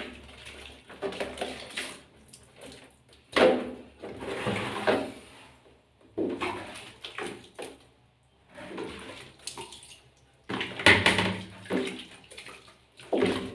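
Water splashing and sloshing in a small basin in irregular bursts, the sound of a sugar glider being washed by hand.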